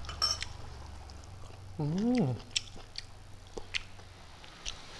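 Close-miked eating sounds of a man chewing fried chicken wings and rice: scattered wet clicks and lip smacks, with a short hummed "mm" that rises and falls in pitch about two seconds in.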